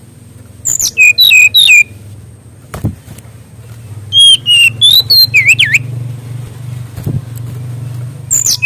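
Sikatan rimba dada coklat (fulvous-chested jungle flycatcher) singing loudly in three bursts. Each burst is a quick run of sharp whistled notes that sweep down from very high to lower pitch. A low steady hum runs underneath.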